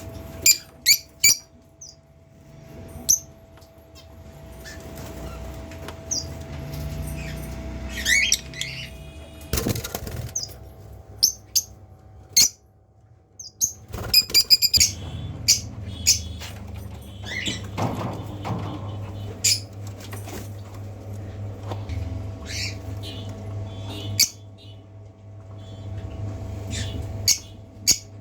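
Pet lovebirds calling in many short, sharp chirps scattered irregularly, with bouts of wing fluttering.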